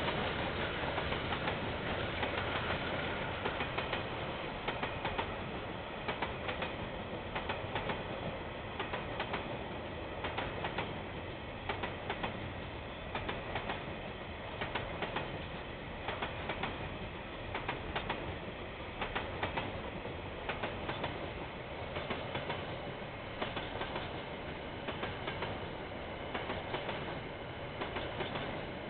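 A train's wagons rolling past, the wheels clicking over the rail joints again and again, about one to two clicks a second over a steady rumble, heard through a security camera's microphone.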